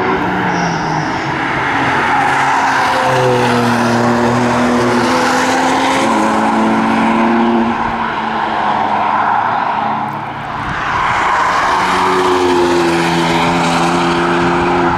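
Engine of a camouflaged BMW SUV test car pulling hard on the track, its note climbing and stepping in pitch through the gears. It eases off about ten seconds in, then builds loudly again.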